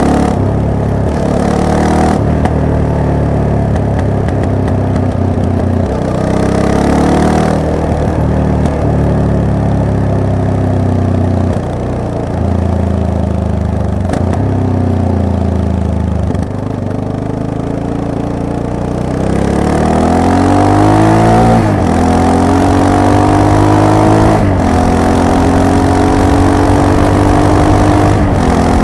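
Yamaha MT-03's parallel-twin engine under way, its revs rising and falling with the throttle. About two-thirds of the way in it accelerates hard, pulling up through two gear changes and then running on at a steady higher pitch.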